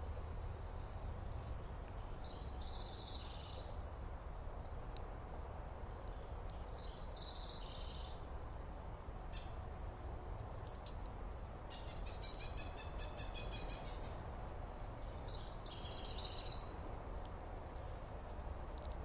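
Songbirds calling: short high chirpy phrases every few seconds, and a longer rapid trill about twelve seconds in, over a steady low rumble.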